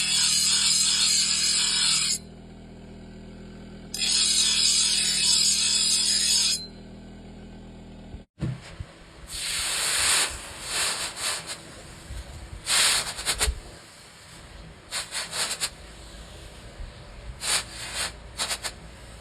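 Steel knife blank being worked with abrasive tools: two loud grinding passes of about two seconds each over a steady motor hum. After a cut, a run of shorter, uneven scraping strokes of metal being filed or honed.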